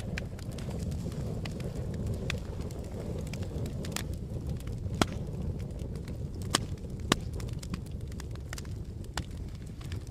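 Campfire burning: a steady low rumble of flames under frequent sharp crackles of burning wood, with a few louder pops in the middle.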